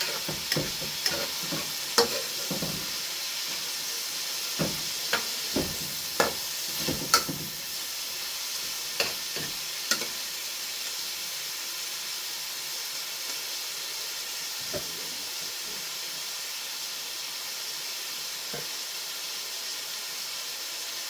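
Food frying in a pot with a steady sizzle, while a utensil stirs and knocks against the pot: a dozen or so sharp knocks in the first ten seconds, then only a couple more.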